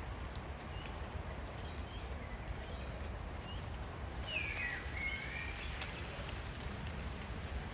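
Steady outdoor background noise with a low rumble, and a few short bird chirps about four to six seconds in.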